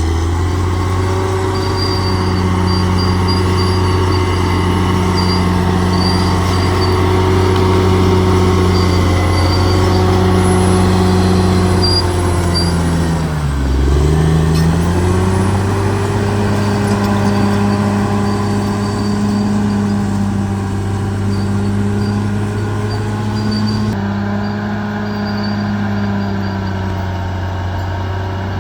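Large bulldozer's diesel engine running steadily, its pitch dipping sharply and recovering about halfway through.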